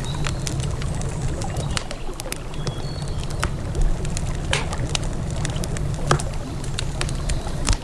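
Wood campfire crackling with frequent irregular sharp pops over a steady low rumble of river water.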